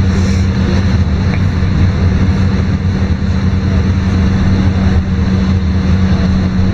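Aboard a LiAZ-5292 low-floor city bus under way: its diesel engine runs with a steady, loud drone, with road and cabin noise around it.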